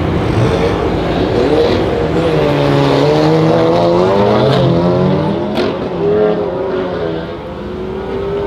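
Mercedes-AMG GT63 S twin-turbo V8 with a decat exhaust running at low revs, its note rising and falling a little as it is blipped, with a couple of sharp cracks about four and a half and five and a half seconds in.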